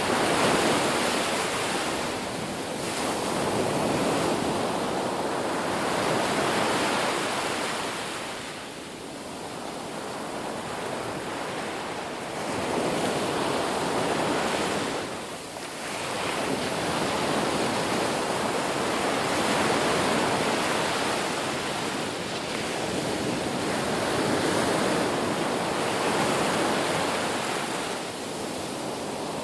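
Sea waves breaking and washing in, a continuous surf rush that swells and ebbs every few seconds.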